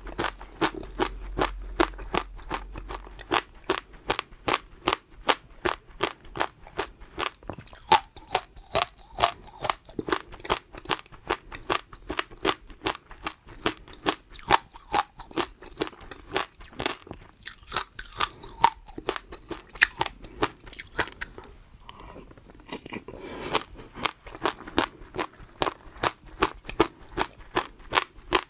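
Close-miked chewing of crunchy food, a steady run of crisp crunches at about three a second, with two short breaks about two-thirds of the way through.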